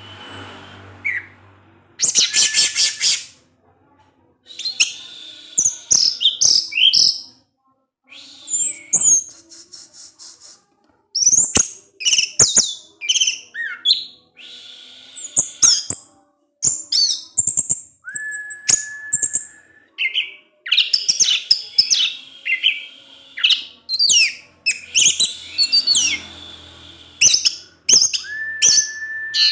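Orange-headed thrush singing a long, varied song of quick chirps, sweeps and trills, broken by short pauses, with a held, level whistled note about two-thirds of the way through and another near the end.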